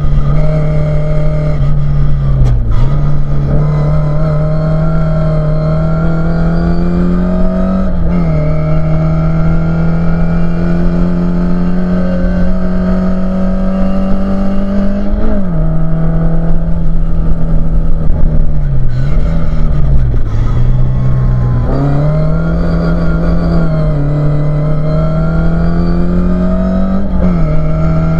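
Ford Escort Mk2 RS2000 race car's four-cylinder engine heard from inside the cabin under hard racing acceleration. The revs climb steadily and drop sharply at each gear change several times, with two quick dips in revs about two-thirds through, over steady road and tyre noise.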